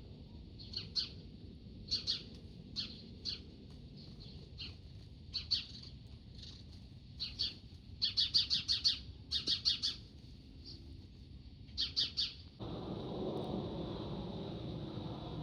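A small bird chirping repeatedly: short high notes every second or so, with quicker runs of chirps in the middle and near the end. About twelve seconds in, a steady low rushing noise takes over abruptly.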